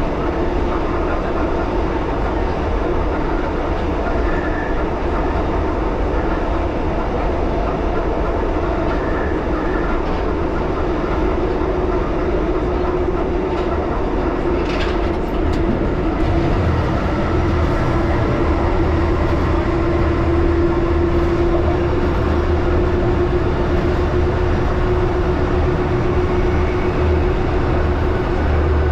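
1938 Tube Stock train running along the track, heard from inside the carriage: a steady running noise with a constant hum. A single sharp click comes about halfway through, and the low rumble grows a little louder soon after.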